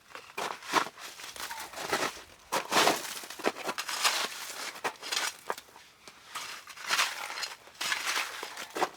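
Irregular crunching and rustling, in uneven bursts a fraction of a second to about a second long.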